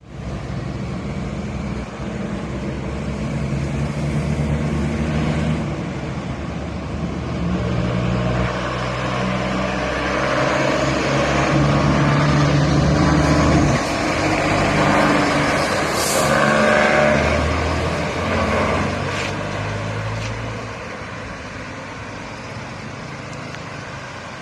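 Heavy trucks' engines running past on the road, their pitch stepping up and down as they pull away and change gear, with a short hiss about sixteen seconds in. The sound fades somewhat near the end.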